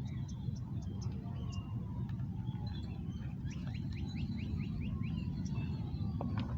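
Small birds chirping, with a quick run of about seven short rising notes about halfway through, over a steady low rumble.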